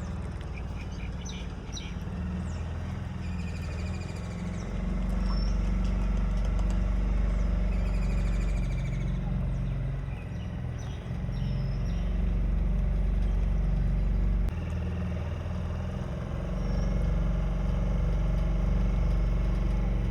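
A boat's engine runs with a steady low rumble that gets louder about five seconds in and drops back briefly around fourteen seconds. Birds chirp over it now and then.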